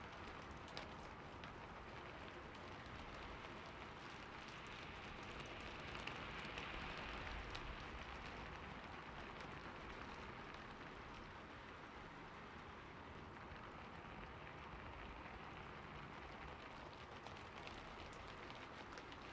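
Steady rain falling on a roof: a soft, even hiss with scattered drop ticks, swelling slightly about six seconds in.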